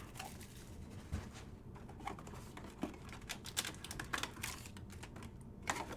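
Faint scattered clicks and light rustling of a trading-card pack being handled and opened.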